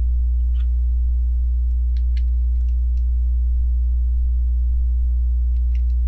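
Steady low electrical hum, the loudest thing throughout. A few faint light clicks sound over it, plastic Lego pieces being handled.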